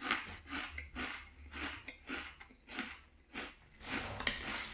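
Close-up chewing of a mouthful of maple cinnamon Frosted Flakes in milk: crunching in a steady rhythm, about three chews a second.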